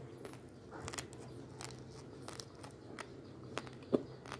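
Raw basmati rice grains crunched between the teeth: a string of irregular sharp crunches, the loudest one shortly before the end.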